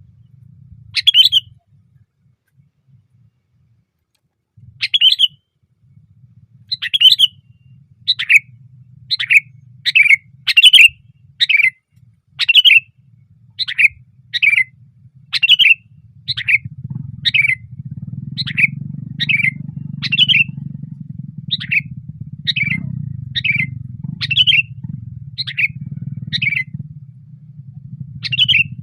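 Sooty-headed bulbul (kutilang) giving short, loud calls, about one a second after a few scattered notes at first. A low background rumble grows louder about halfway through.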